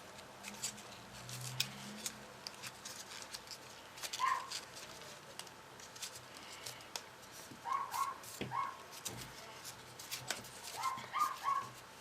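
Short, high whines from an animal, singly and in groups of two or three, over scattered crisp clicks and crinkles of paper being handled and folded.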